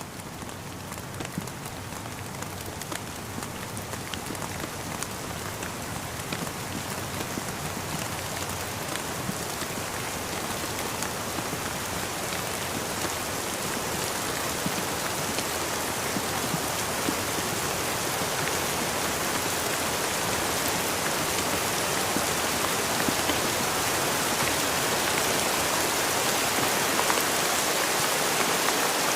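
Steady rain falling, with individual raindrops ticking through a continuous hiss. It grows gradually louder across the whole stretch.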